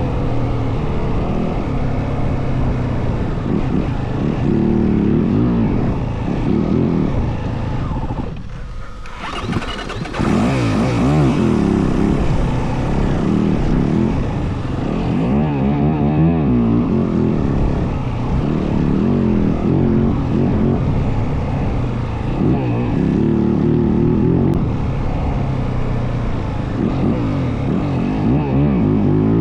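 Yamaha WR450F dirt bike's single-cylinder four-stroke engine revving up and down under riding. The engine note drops away briefly about nine seconds in, then picks up again.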